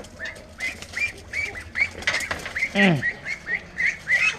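Young ducks peeping, a steady run of short high cheeps about three a second. About three seconds in comes one louder voice-like call that slides down in pitch.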